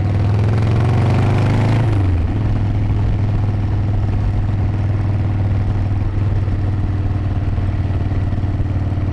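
Harley-Davidson V-twin motorcycle engine heard from the saddle with wind rush, rising in pitch under throttle for about two seconds, then dropping and running steadily at speed.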